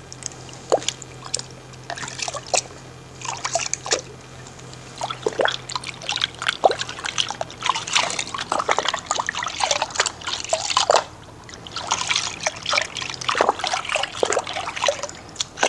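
A hand swishing and splashing through soapy water in a wash bucket, in irregular bursts of small splashes and trickles, checking the diluted car wash for slickness.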